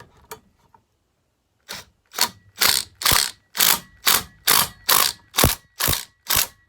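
Ratchet wrench tightening the nut on a Homelite XL-12 chainsaw's flywheel and starter pawls. The ratchet clicks in a run of about eleven even strokes, a little over two a second, starting a couple of seconds in.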